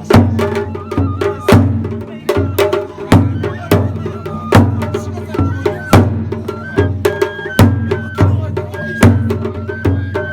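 Japanese festival hayashi music: taiko drums struck in a steady beat, a heavy hit about every three-quarters of a second with lighter strokes between, under a high flute melody.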